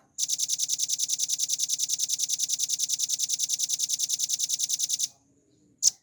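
Velvet-fronted nuthatch singing a long, fast, even trill of about a dozen high notes a second, its drilling 'ngebren' song, which stops about five seconds in; a few sharp single notes follow near the end.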